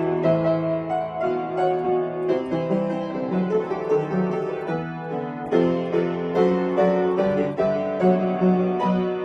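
Solo piano playing a pop-song arrangement, with chords and melody notes struck in a steady flow.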